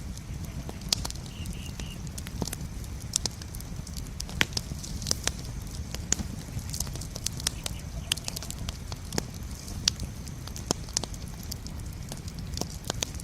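Campfire burning, crackling with irregular sharp pops over a steady low rumble of the flames.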